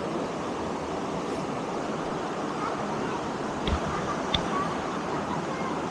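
Steady rush of a waterfall, with two brief knocks a little past the middle.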